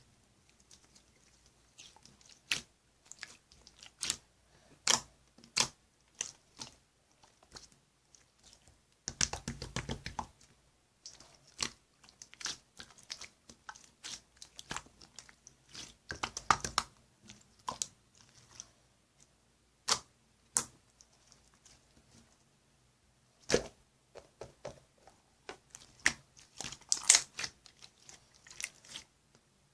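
Irregular sharp clicks and taps close to the microphone, with two denser crackling stretches about nine and sixteen seconds in.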